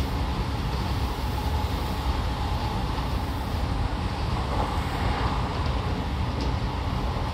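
Odakyu 5000 series electric commuter train running at speed, heard from inside the passenger car: a steady low rumble of wheels on rails and running gear.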